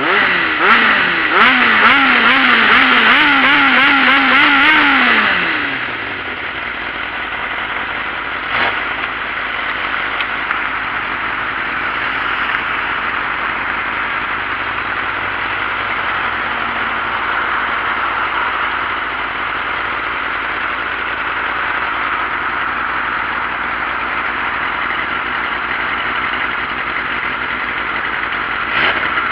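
Sport bike engine revving hard, its pitch wavering rapidly up and down. About five seconds in the revs fall away, leaving a steady rushing noise for the rest of the time.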